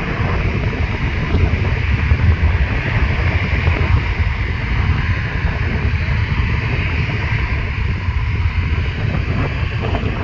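Regional airliner's engines running at takeoff power during the takeoff: a steady low rumble with a broad hiss above it.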